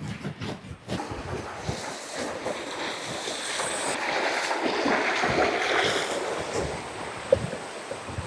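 Rushing water of a small forest waterfall, a steady hiss of flowing water that grows louder towards the middle and eases a little near the end.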